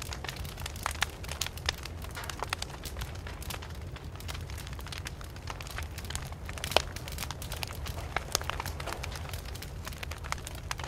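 Wood campfire burning with a low steady rumble and irregular crackles and pops, the loudest pop a little before seven seconds in.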